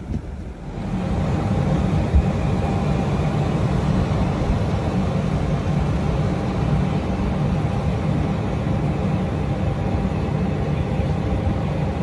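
Vehicle engine running steadily, a low hum with a few steady tones, starting just under a second in.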